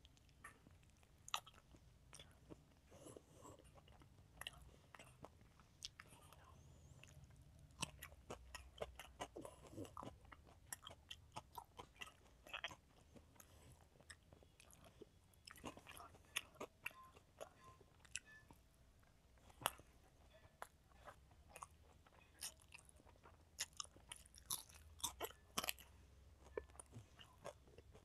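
A child chewing a mouthful of rice and fried food eaten by hand, close to a clip-on microphone: soft, irregular wet clicks and smacks, with some crunching.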